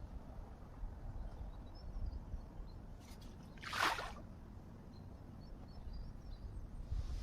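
Quiet outdoor waterside ambience with a low rumble, and one short hissing swish about four seconds in.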